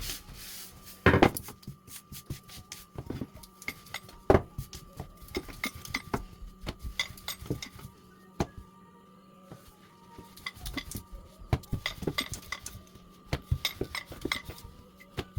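Kitchen utensils clinking and knocking against cookware and a work surface, with two louder knocks in the first few seconds followed by runs of quick light clicks.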